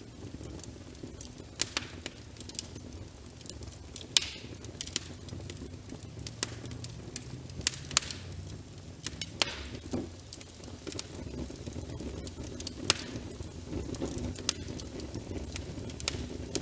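Wood fire crackling with frequent sharp pops and a couple of brief hisses, over a steady low patter of rain.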